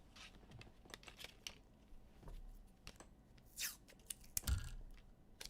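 Trading-card packs and cards being handled: short tearing and rustling of a pack wrapper among light clicks, with a soft thump about four and a half seconds in.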